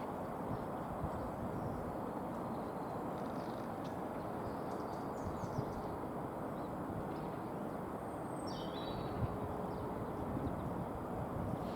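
Outdoor background of steady low rumbling noise, with small birds chirping faintly now and then and one clearer falling chirp about eight seconds in.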